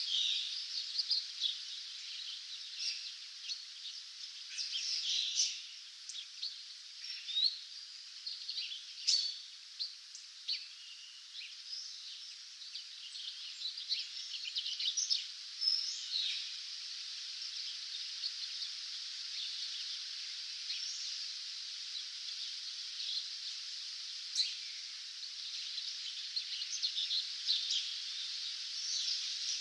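Birds singing at dawn: many short high chirps and trills from several birds over a steady high-pitched hiss, busiest in the first half and thinning out later.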